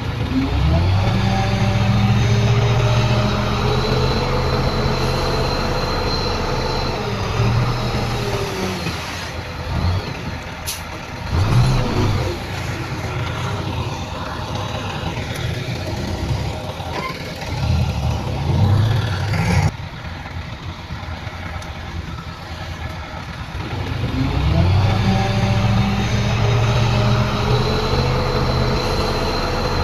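Heavy diesel engine of earthmoving machinery revving up and working hard for several seconds, easing off, surging briefly a few times, then revving up and holding again.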